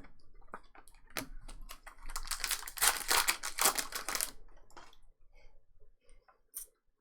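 Trading cards being handled and flipped through by hand: scattered light clicks and taps, with about two seconds of dense rustling in the middle, then a few faint clicks.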